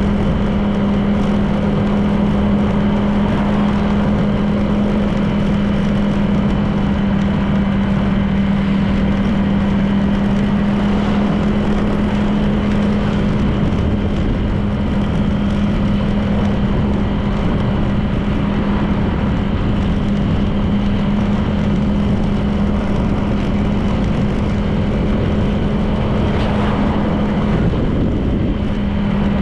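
Honda PCX 160 scooter's single-cylinder engine running at a steady cruise, with wind and road noise. The engine note drops briefly near the end, then picks up again.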